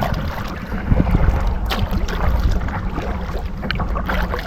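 Kayak moving on a creek: light paddle dips and water splashes, over a steady low rumble of wind on the microphone.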